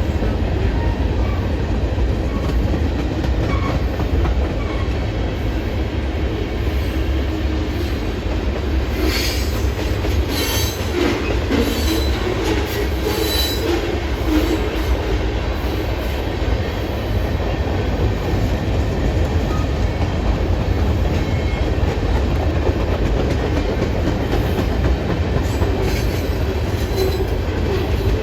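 Slow train passing: a steady low rumble of rolling wheels and cars, with a cluster of wheel clicks and brief squeals about nine to fourteen seconds in.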